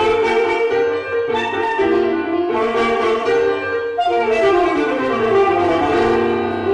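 Music: a saxophone playing a melody with vibrato, other pitched parts sounding underneath it.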